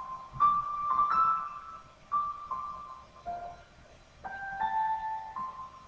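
Background music: a slow piano melody of single held notes, a new note every second or so.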